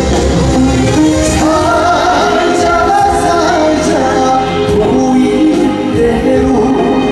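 Live band music for a trot song, a melody line over full accompaniment during an instrumental passage between verses.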